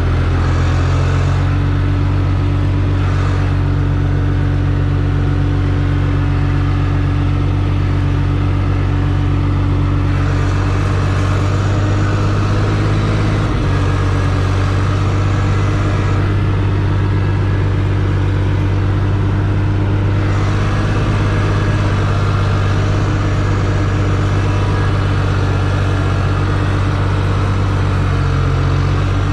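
Case C60 tractor's engine running steadily under load, shifting slightly in pitch a little under halfway through and again about two-thirds of the way in.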